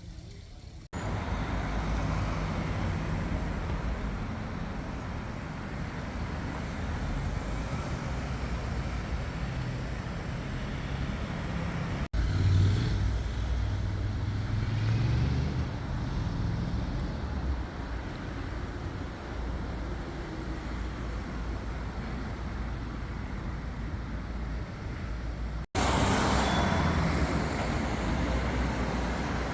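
Steady road traffic noise of motor vehicles running on a street, broken by abrupt cuts about a second in, about twelve seconds in, and near the end.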